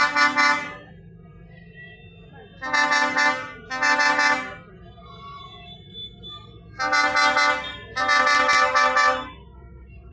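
A vehicle horn honking in pairs of steady, roughly one-second blasts, repeated about every four seconds, over a low rumble of engines.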